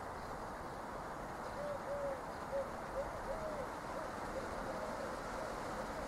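Pigeon cooing: a string of short coos, each rising and falling, starting about a second and a half in, over a steady background hiss.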